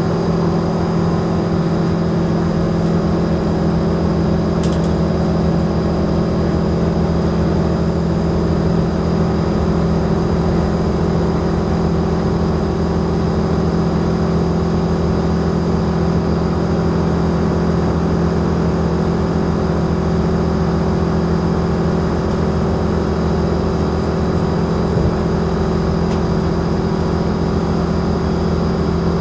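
Cabin noise aboard a moving Alstom Coradia LINT railcar: a steady, unchanging drivetrain hum over the rush and rumble of the train rolling along the track.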